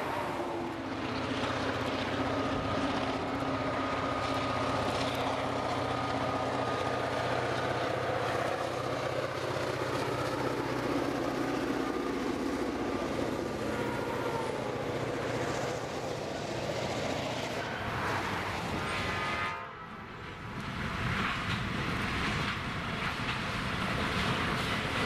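An EMD GP38 diesel locomotive runs past hauling covered hopper cars: the engine hums steadily over the rolling and clacking of the car wheels on the rails, with a thin wheel squeal for several seconds early on. The sound dips briefly about 20 seconds in, then the rolling train noise picks up again.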